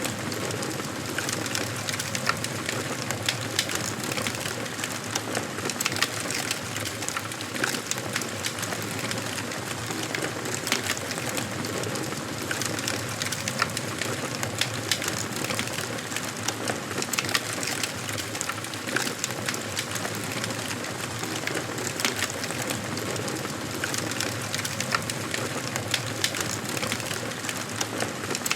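Wood fire burning in a fireplace, a steady soft rush of flames with frequent sharp crackles and pops from the burning logs.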